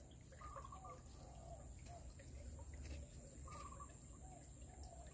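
Faint bird calls: a scatter of short chirps over a quiet outdoor background, two of them a little clearer, about half a second and three and a half seconds in.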